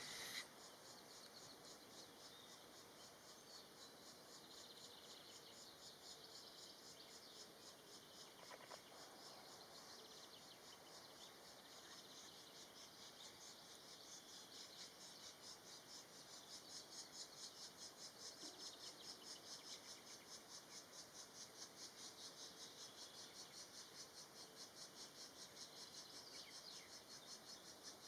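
Faint insect stridulation: a rapid, even pulsing of high-pitched chirps that keeps going throughout and grows a little louder about halfway through.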